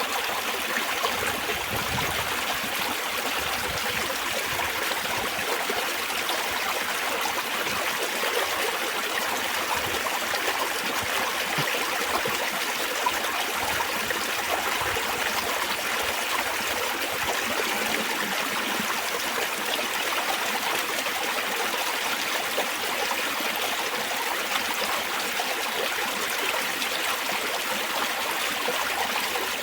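Spring water trickling and babbling in a steady, continuous flow.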